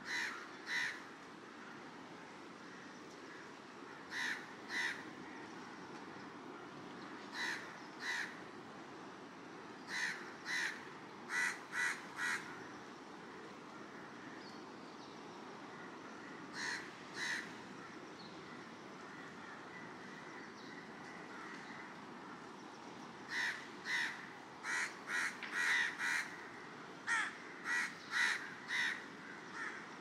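A bird calling in short repeated calls, mostly in pairs, with a quicker run of calls near the end, over the steady wash of ocean surf.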